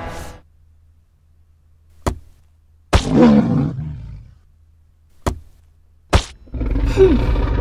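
Monster roar sound effects: a growling roar starts suddenly about three seconds in and fades over a second, and a second, louder roar begins near the end with a falling pitch. Short sharp knocks fall in between.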